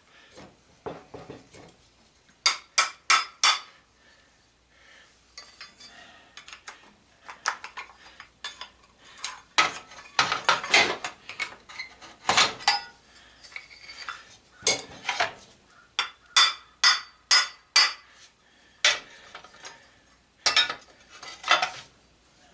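Hand tools knocking and clinking on the metal parts of a belt/disc sander being taken apart: sharp metallic taps in irregular clusters, including four quick taps about two and a half seconds in.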